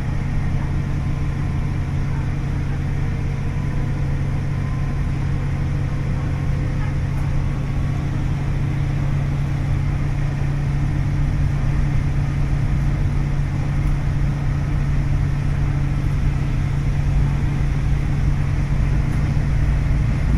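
Diesel railcar's DMF15HSA horizontal six-cylinder engine running with a steady low drone, heard from inside the car, getting slightly louder in the second half.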